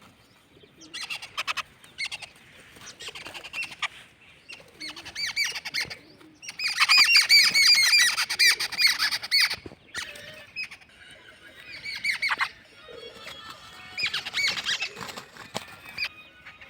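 Birds squawking in repeated bursts of rapid, harsh, high-pitched calls, loudest in a long burst a little before the middle: the sound of birds fighting.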